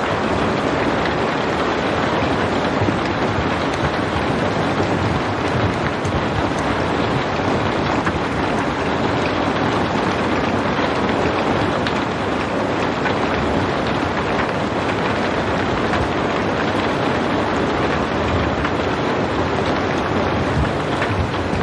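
Steady rain falling, an even hiss of countless drops with faint patters throughout.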